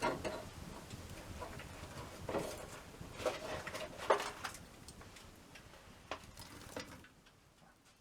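Wood fire crackling, with irregular sharp pops and snaps that grow fainter toward the end.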